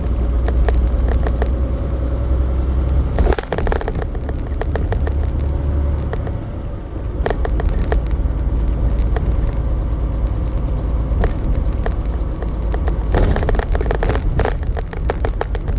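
Semi truck driving, a steady low engine and road rumble with frequent sharp clicks and rattling knocks, which cluster about three seconds in and again near the end.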